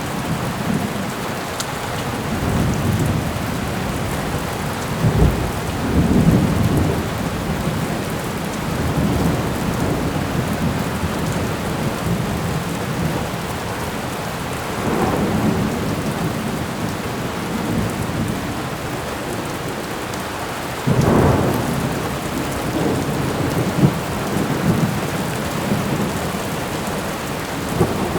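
Steady rain on a surface with repeated rumbles of thunder. Heavier peals come about a fifth of the way in, around halfway, and a sudden one about three quarters of the way through.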